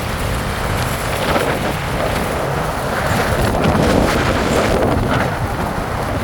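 Wind buffeting the microphone during a bike ride, over steady road and vehicle noise.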